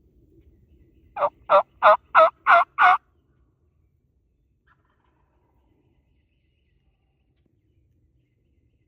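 A turkey yelping: six loud, evenly spaced yelps at about three a second, lasting under two seconds.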